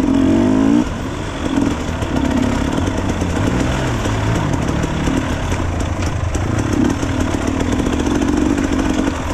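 Dirt bike engines running as the riders move off, with the revs rising and falling once around the middle.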